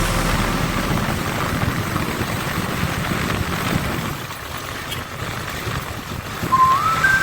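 Steady rushing wind and road noise from a moving motorcycle, with no clear engine note. Near the end a short tone steps upward in pitch.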